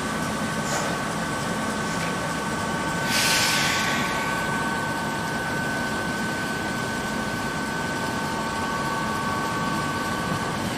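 Electric train standing at a station platform, its on-board equipment running with a steady whine of several high tones over a steady hum. A short burst of air hiss comes about three seconds in, and two of the tones cut off near the end.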